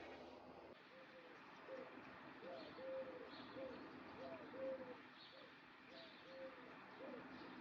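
A dove cooing faintly: a running series of short rising-and-falling coos with a few longer ones, and faint high chirps from small birds.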